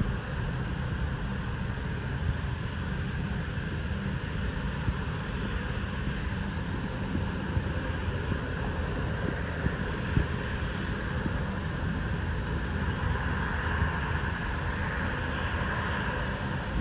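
Jet airliner's engines running steadily at taxi power, with wind buffeting the microphone; the engine sound grows a little stronger near the end.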